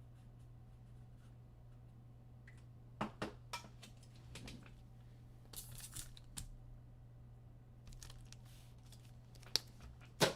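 Scattered light clicks and taps with a brief rustle partway through, over a steady low electrical hum: small objects being handled on a desk.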